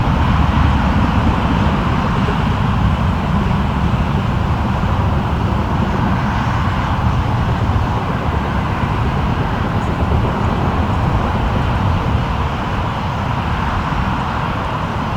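Jet aircraft engines giving a steady, loud rumble with a hiss around the middle range, easing a little near the end.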